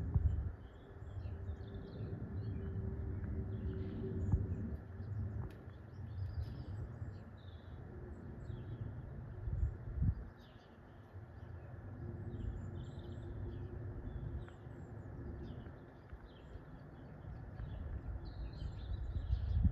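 Small birds chirping, with many short calls over a low, uneven rumble that swells and fades, carrying a faint steady hum.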